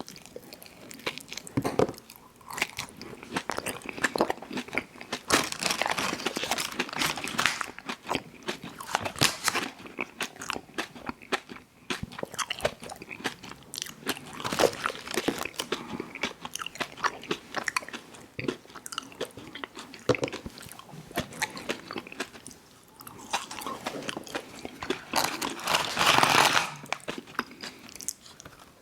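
Close-miked eating of an ice cream sandwich: bites and chewing with crisp, crackly clicks and wet mouth sounds throughout, loudest in a long chewing stretch near the end.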